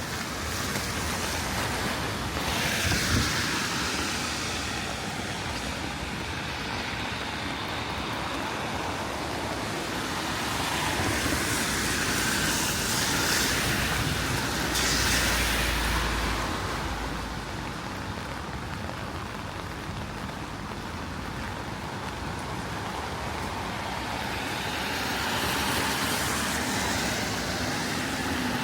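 Road traffic on wet streets: cars pass three times, their tyre hiss swelling and fading over a steady background of rain and traffic noise.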